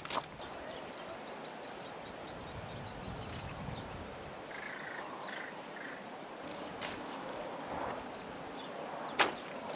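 Rural outdoor ambience: a steady background hiss with a few sharp knocks, the loudest near the end, and three short faint animal calls a little past halfway.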